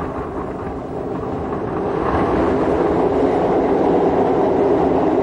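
Train running along the track with a steady rumble and hum, growing a little louder over the first few seconds.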